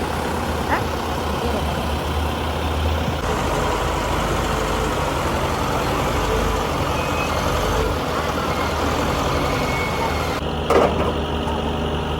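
Diesel truck engine running steadily, with a brief clank a little before the end.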